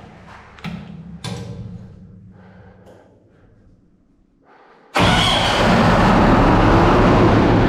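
A few knocks, then about five seconds in a fire pump's engine comes in suddenly and runs loud and steady, with a fast pulsing beat.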